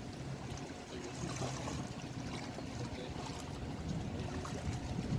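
Steady rush of moving river water, an even noisy wash without distinct events.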